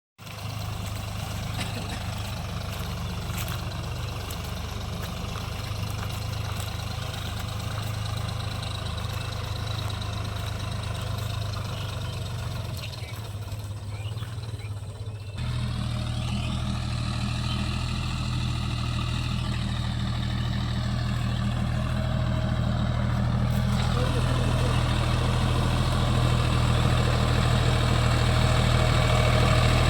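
Deutz-Fahr Agrolux 50 tractor's diesel engine running steadily. About halfway through the sound steps up and grows slowly louder.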